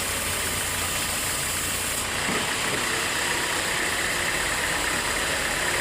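Sawmill machinery running steadily, with a change in its tone about two seconds in.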